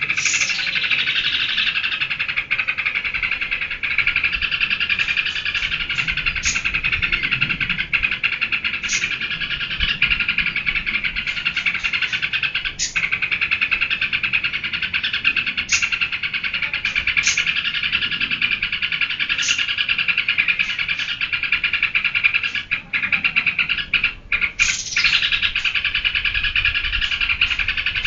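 Yellow-vented bulbul (trucukan) singing 'geberan', a fast unbroken chattering song, with a few sharp clicks scattered through it.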